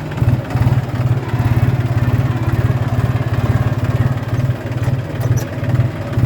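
Tractor engine running steadily with a low, even pulsing beat while plowing a field.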